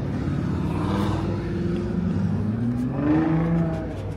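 A car engine running close by, its pitch rising as it is revved about three seconds in.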